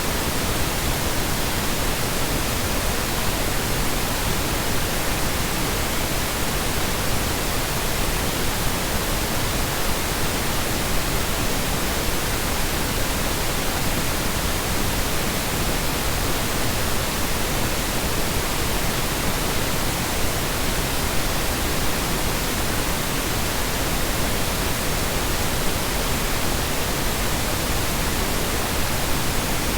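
Steady synthetic noise: a continuous, even hiss that never changes in level or character.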